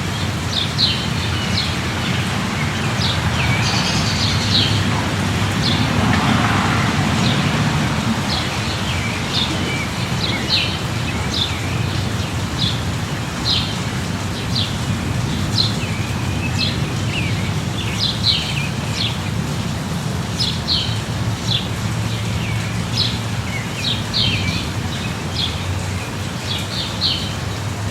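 Steady light rain with small birds chirping over it, short high chirps about once or twice a second throughout, and a low steady rumble underneath.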